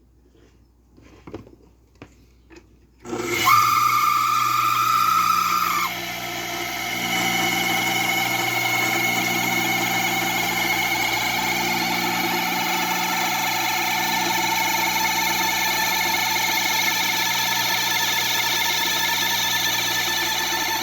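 Kawamoto N3-256SH well pump's electric motor switched on and running with an abnormal noise. It starts about three seconds in with a loud steady high whine that drops away after a few seconds, then settles into a steady running sound full of fixed tones. A few faint clicks come before it starts.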